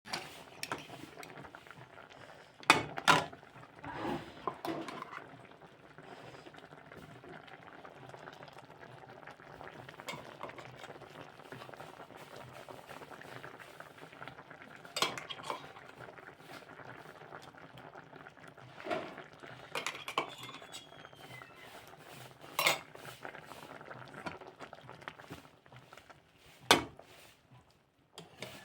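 Food cooking in a pan with a steady sizzle, while a metal spoon stirs and clinks against the pan now and then: a few sharp knocks near the start and single ones spread through the rest.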